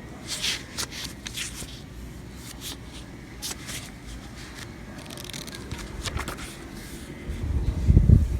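Handling noises: a string of short rustles and clicks, then a louder low bump near the end.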